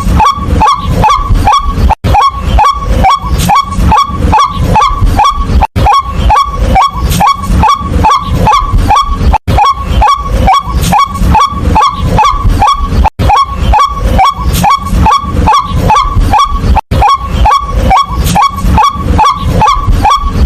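White-breasted waterhen calls: loud, harsh, croaking notes repeated about three or four times a second. The sequence breaks off briefly and restarts every few seconds, as a looped recording does.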